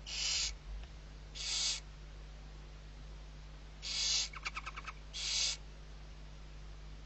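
Barn owl chick giving four harsh, hissing begging calls of about half a second each, with a quick run of short chittering notes between the third and fourth. A steady low hum runs underneath.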